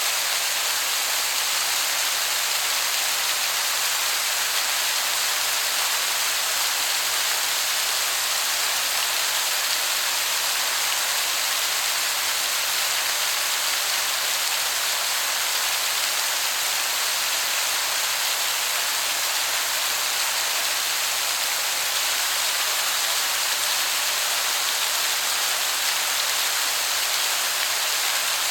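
Waterfall heard from a distance: a steady, even hiss of falling water that sounds like heavy rain.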